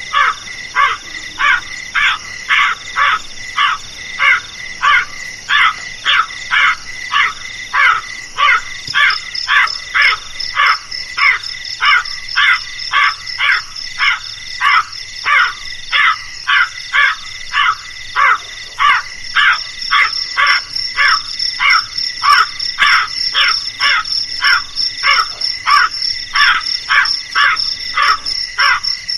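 Crow cawing over and over, short harsh calls about twice a second without a break, over a steady high insect-like buzz.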